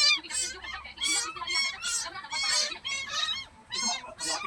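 Rapid, overlapping high-pitched animal calls, two or three a second.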